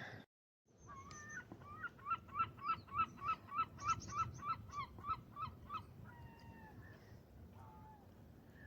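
A gull calling: after a brief dropout, a fast run of about fifteen even, ringing notes, roughly three a second, then a few single drawn-out, falling calls.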